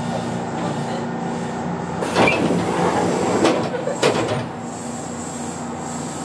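Interior of a Kintetsu local train standing at a station, with the steady hum of the car's equipment. About two seconds in, a louder burst of hissing and rumbling with a few sharp knocks lasts for a couple of seconds, then the hum goes on.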